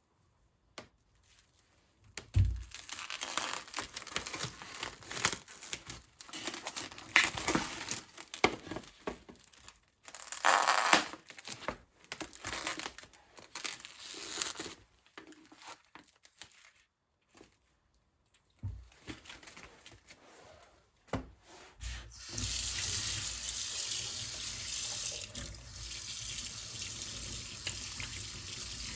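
Water from a kitchen tap splashing into a sink in irregular spurts as something is handled and washed under it, then running steadily from about two-thirds of the way through.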